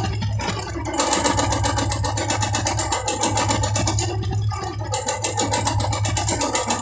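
Royal Enfield Classic 350's single-cylinder engine running steadily with a fast tick-tick-tick from inside the engine, which the mechanic puts down to a worn crank bearing at the connecting rod.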